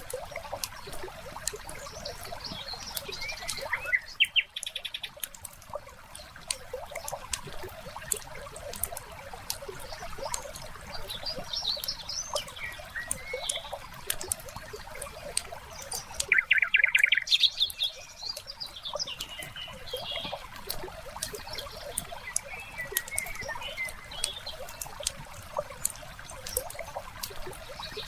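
Fireplace crackling steadily with many small pops, while small songbirds chirp now and then. Two louder rapid trills come about four seconds in and again about seventeen seconds in.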